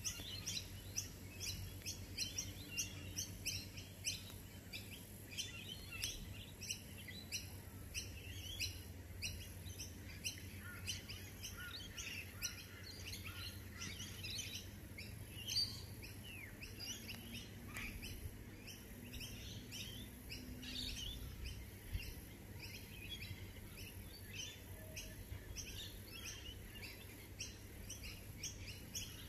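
Small birds chirping and singing outdoors: many short, high calls repeating several times a second, over a faint steady low background rumble.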